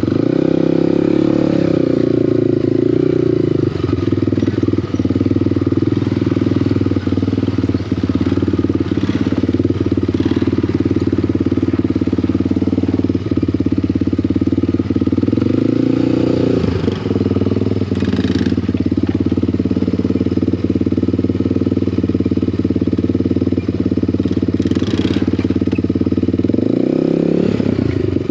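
Small off-road motorbike or quad engine running steadily while riding, its pitch dipping and climbing back a few times: near the start, about 16 seconds in, and near the end.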